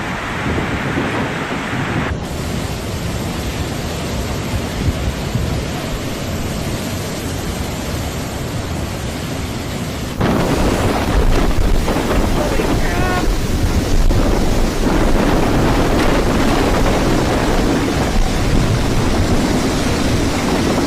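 Hurricane wind and heavy rain, a dense roar that buffets the microphone, across several spliced clips. It grows louder and heavier about ten seconds in.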